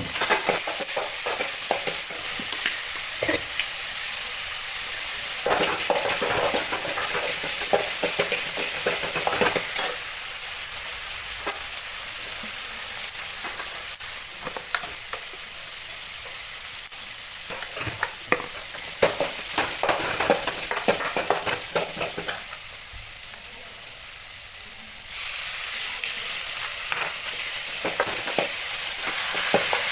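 Food sizzling in hot oil in a kadai, with bouts of a spatula stirring and scraping against the pan between steadier stretches of sizzling.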